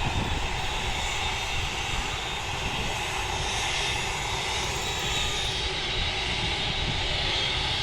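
Jet airliner engines running steadily, a broad rumble with a thin high whine over it.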